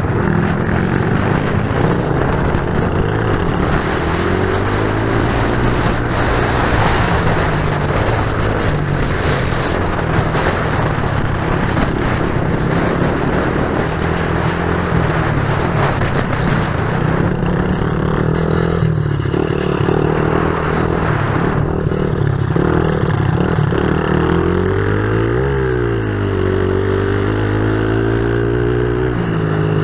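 Several pit bike engines running and revving as they are ridden, their notes rising and falling with the throttle. Two engine notes sweep past each other, one rising and one falling, about 25 seconds in.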